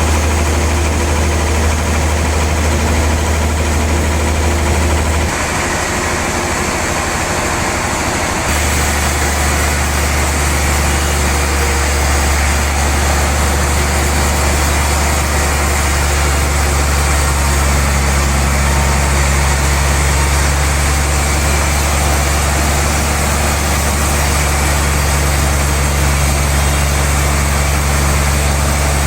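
Sawmill machinery running with a steady deep hum, with no talk over it. The deep hum drops away for about three seconds near the start, then comes back.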